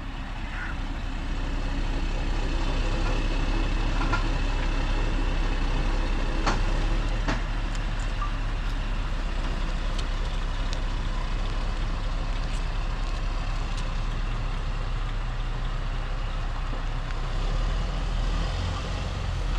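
Heavy diesel engines of a tractor and loaded lorry running steadily under load as the lorry is towed out. A constant deep drone that grows louder about two seconds in, with a few scattered clicks and knocks.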